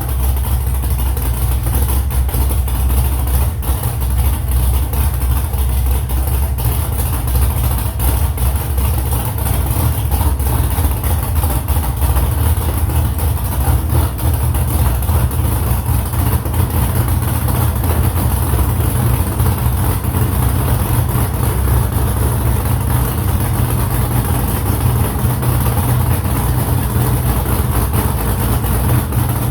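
Freshly built hot-rod car engine running steadily at an even speed, with a strong low rumble, during its break-in run.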